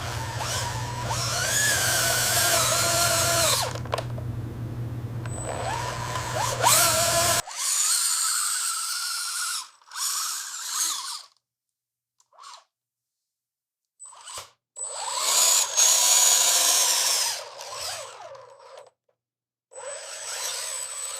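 Electric power drill whirring in several runs, its whine rising and falling in pitch as it speeds up and slows down. There are short silent gaps between the later runs.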